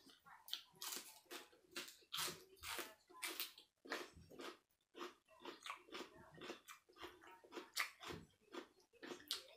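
A person biting and chewing crisp raw vegetables close to the microphone: many short, irregular crunches and wet mouth sounds.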